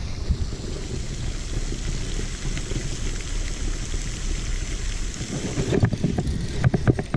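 Wind buffeting the microphone, a steady rumbling flutter over an even hiss, with a few short knocks near the end.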